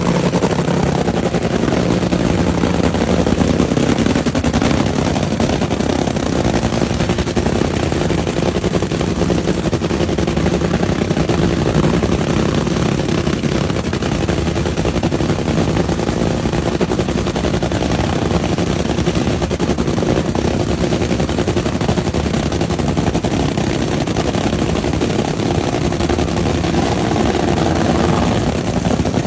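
Drag racing car's engine running steadily at a loud idle, its firing pulses coming as a rapid crackling rattle with no revving up or down.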